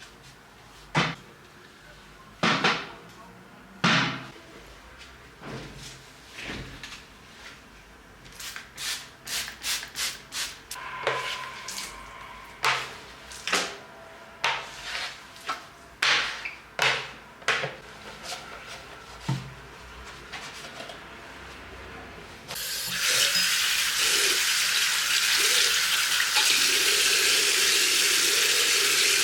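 A string of short, sharp clicks and knocks from handling things, then, from about three-quarters of the way in, water running hard and steadily, which stops abruptly at the end.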